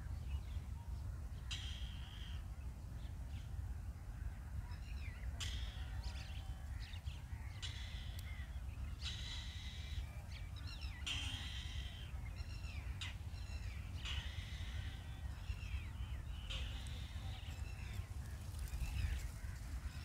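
Birds calling: harsh calls of up to about a second, repeated every second or two and mixed with short chirps, over a steady low rumble.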